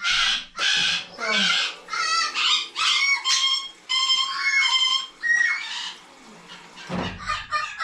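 Parrots squawking and screeching loudly, call after call about twice a second, then stopping; a low thud near the end.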